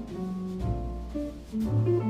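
Jazz combo playing an instrumental break in a ballad: single guitar notes over double bass notes.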